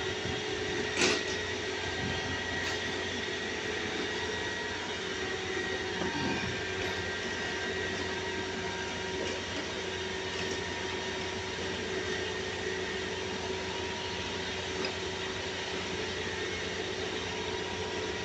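Steady mechanical drone with a faint, constant whine, from running machinery, and one small click about a second in.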